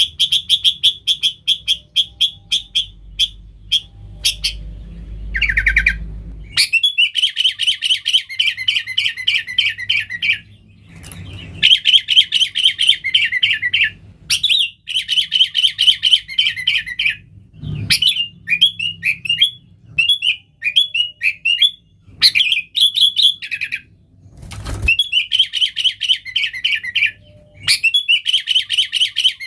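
Sooty-headed bulbul (kutilang) singing hard: fast chattering runs of rapidly repeated notes, several seconds each with short breaks between them, and a stretch of separate short whistled phrases about two-thirds of the way through.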